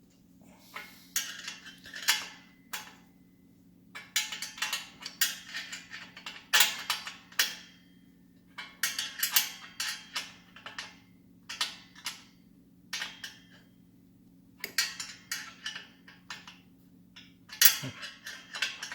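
A hand wrench working on motorcycle exhaust fasteners: about a dozen short bursts of rapid metal clicks and clinks, as from a ratchet being worked back and forth, spaced a second or so apart. A faint steady low hum runs underneath.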